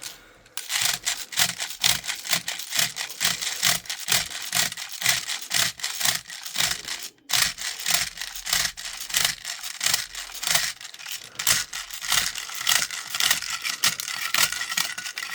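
Airsoft magazine being loaded with BBs: repeated scraping strokes, about two to three a second, with a brief break about seven seconds in.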